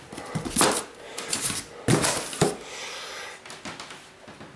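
Things being handled and packed into a cardboard box: a series of irregular sharp knocks and clatters with rustling between them. The loudest knocks come about half a second in and around two seconds in.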